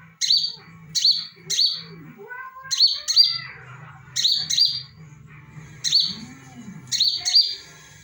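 A caged decoy bird repeatedly giving short, sharp, high chirps, often in quick pairs, about ten calls in all.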